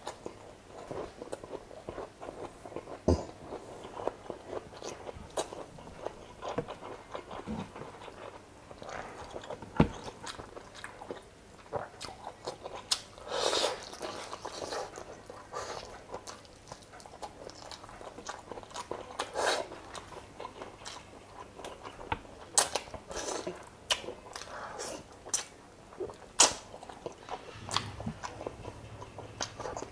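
A person eating chicken adobo and rice by hand, chewing with an open, wet mouth. Many short, sharp smacks and clicks sound all through, with a few longer, louder mouthfuls in between.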